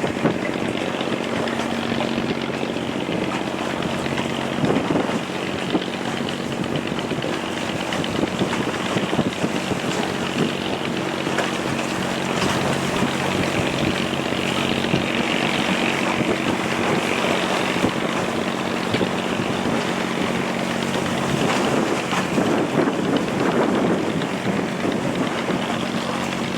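Fishing boat's engine running steadily, with a low, even hum under wind and water noise.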